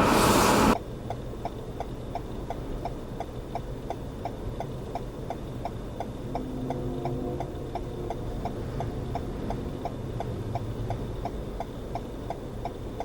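A burst of wind noise cuts off abruptly under a second in. Then a vehicle's hazard-light flasher clicks evenly, a few clicks a second, over a low steady engine hum.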